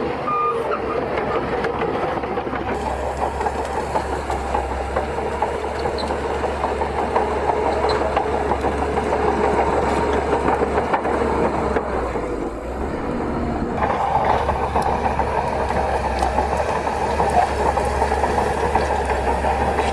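Crawler bulldozer working: its diesel engine runs steadily under load with a continuous clanking clatter from the tracks. The sound eases briefly about two thirds of the way through, then picks up again.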